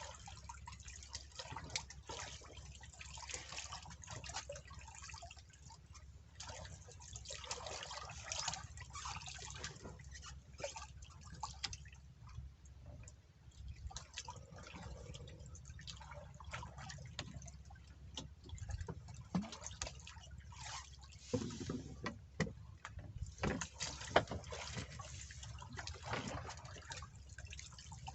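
Water dripping and splashing in irregular drops and small splashes, over a steady low rumble.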